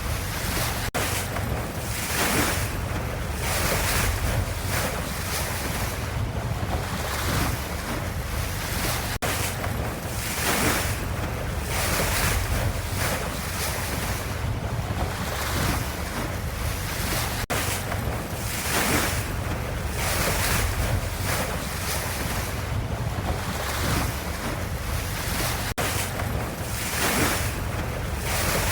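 Ocean waves washing continuously, with a low rumble under surges of hissing surf every second or two.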